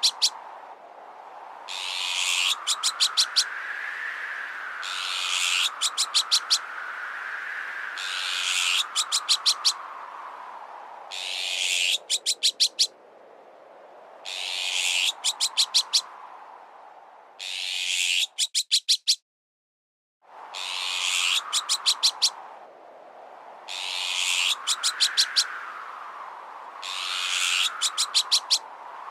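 Looped bird-repellent sound effect: a harsh high call followed by a quick run of five or six sharp clicking notes, repeating about every two seconds, over a whistling howl that rises and falls in pitch. The loop breaks off into silence for about a second past the middle.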